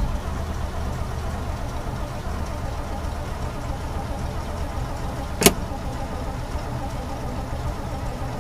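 A steady low engine rumble, with one sharp click about five and a half seconds in.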